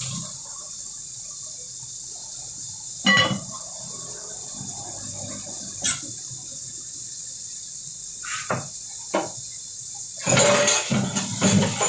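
Kitchen sounds at a soup pot: a few sharp clinks and knocks, then a louder stretch of liquid being poured or splashing near the end, over a steady hiss.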